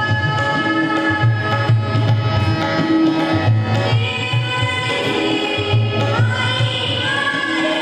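Music: a woman singing a song over a steady, repeating low drum beat, her voice sliding up into notes near the end.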